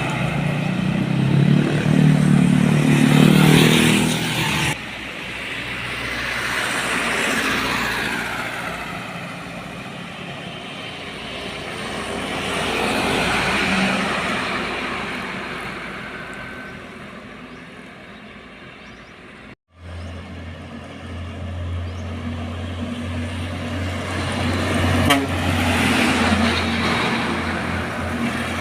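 Heavy trucks passing on a road one after another, each diesel engine swelling and fading as it goes by. The sound changes abruptly twice, about five seconds in and again near twenty seconds in, after which a steady low engine hum runs on.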